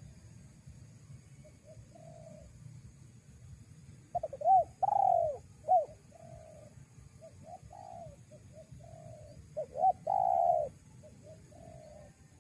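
Spotted dove cooing: two loud phrases, about four seconds in and about ten seconds in, each a few quick short coos leading into a longer coo, with softer coos between them.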